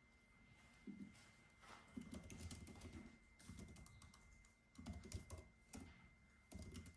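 Typing on a computer keyboard in short irregular bursts of key clicks, with pauses between them, heard faintly.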